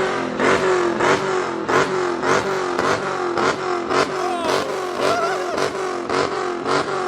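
Dodge Challenger SRT Demon's supercharged V8 revved hard in quick repeated throttle blips, a little under two a second, with a loud crackle on each blip.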